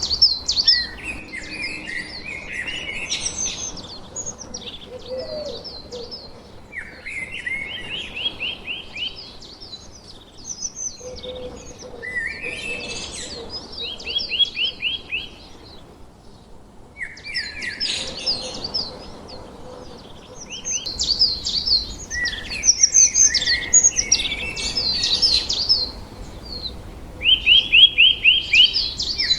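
Several small birds chirping and chattering. A phrase of quick repeated notes comes back every several seconds among the higher chatter.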